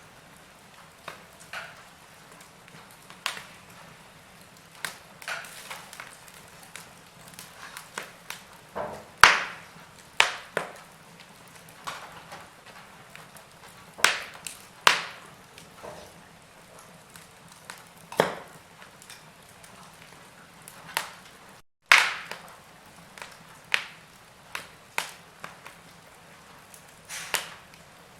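Log fire crackling: irregular sharp pops and snaps of the burning wood, some loud and some faint, over a low steady hiss.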